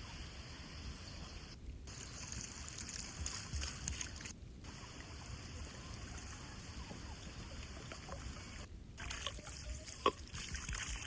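Water trickling, with a sharp click about ten seconds in.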